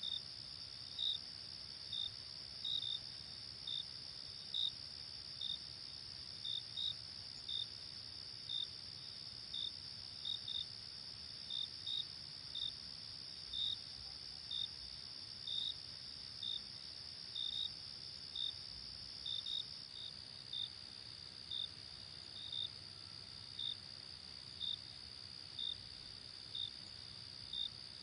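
Night insects chirping: a steady high-pitched trill with short separate chirps about one or two times a second over it.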